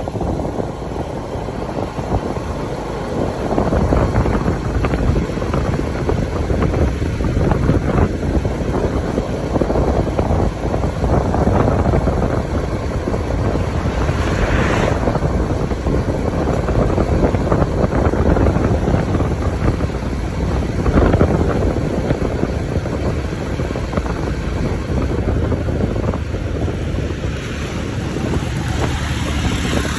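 Wind buffeting the microphone: a loud, steady rushing noise heavy in the low end, swelling and easing in gusts.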